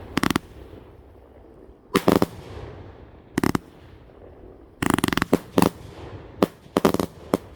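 Consumer firework cake firing: sharp explosive bangs at irregular intervals, with short crackling tails, coming in quicker clusters of several reports about five seconds in and again near the end.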